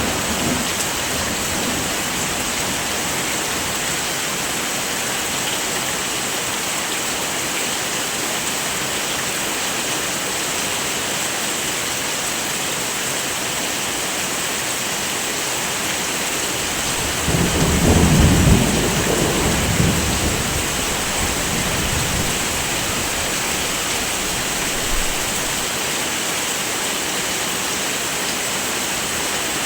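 Heavy rain falling steadily, with a low roll of thunder swelling and fading about two-thirds of the way through.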